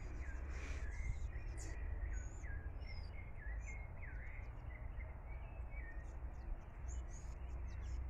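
Birds chirping, many short repeated notes over and over, over a steady low rumble.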